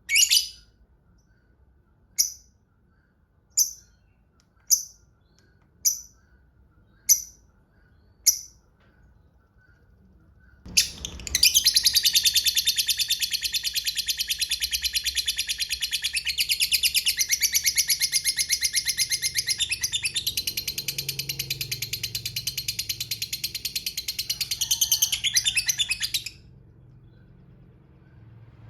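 Lovebird calling: seven sharp, high chirps a little over a second apart, then a long, rapid, unbroken chattering trill (the 'ngekek panjang') lasting about fifteen seconds before it cuts off suddenly.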